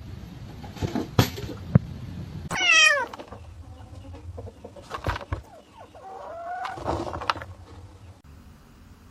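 A cat meowing twice: a loud meow that falls in pitch about three seconds in, and a softer one near the end, with a few sharp clicks before them.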